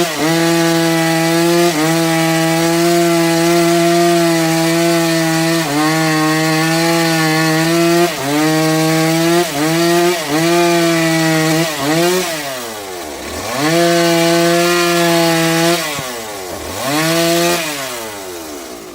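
Bandsaw sawmill cutting through a trembesi log: a steady machine tone with a hiss from the blade. The pitch dips briefly several times as the blade takes load, and twice in the last third it drops steeply and climbs back. The sound fades near the end.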